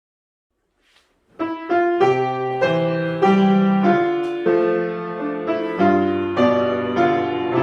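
Solo piano beginning to play about a second and a half in after silence, with struck notes and chords following one another at a steady, unhurried pace.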